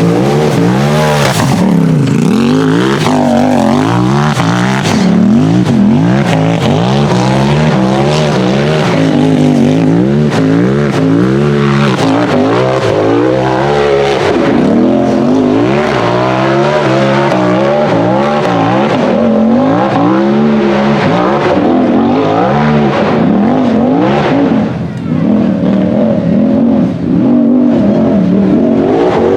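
Turbocharged Polaris RZR buggy engine revving hard under load, its pitch rising and falling again and again as the throttle is worked, with two brief drops near the end as it lets off.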